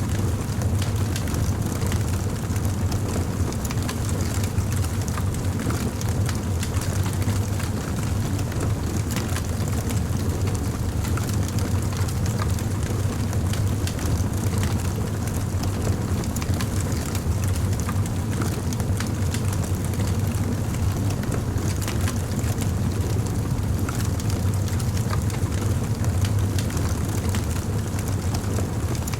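Fire crackling, with frequent small pops and snaps over a steady low rumble.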